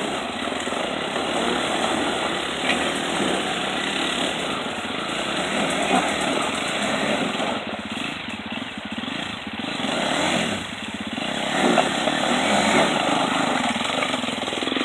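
Motocross motorcycle engine running, its level swelling and dipping.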